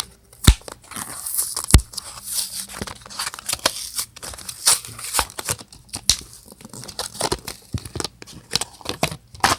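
Packaging being torn open and crinkled by hand, with many sharp clicks and knocks of handling: a toy being unboxed.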